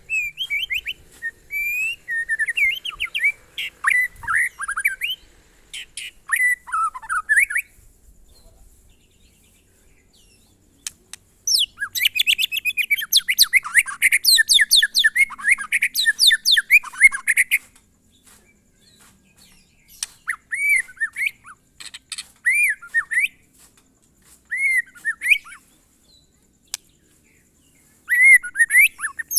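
White-rumped shama (murai batu) singing its 'glondong' style song in loud whistled bursts: a run of varied rising and falling phrases, a pause of a few seconds, a fast dense run of notes around the middle, then short separate arching whistles near the end.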